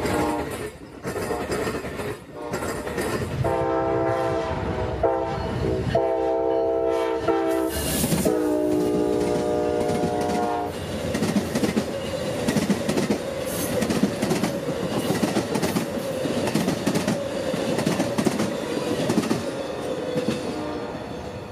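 Multi-chime air horn of an Amtrak GE P42 locomotive sounding four blasts, the last the longest at about two seconds. The passenger cars then roll past with a steady rumble and rapid clickety-clack of wheels over rail joints.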